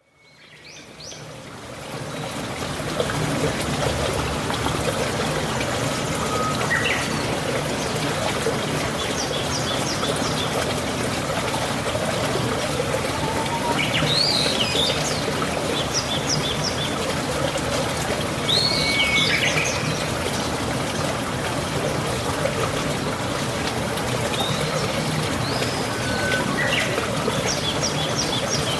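Steady rain with water trickling, fading in over the first few seconds, while birds chirp and call now and then in short bursts of rising and falling notes.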